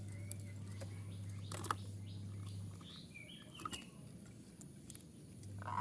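Faint short chirps and scattered clicks over a steady low electrical hum, then near the end a zebra dove starts its loud cooing call.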